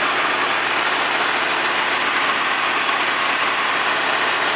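Cabin drone of a Cessna 210D in flight: its six-cylinder piston engine and propeller running steadily, an even whooshing noise with a faint constant hum under it.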